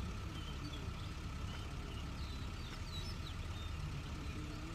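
A vehicle's engine idling steadily, with short high bird chirps scattered over it.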